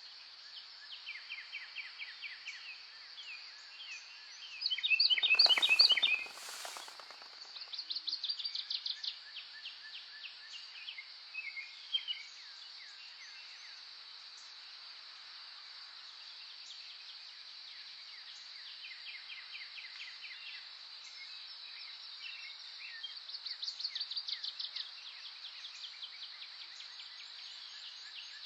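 Wild birds singing in quick trilled and chirping phrases over a steady high insect drone. About five seconds in, a loud two-part burst of noise lasting about two seconds stands out above the birdsong.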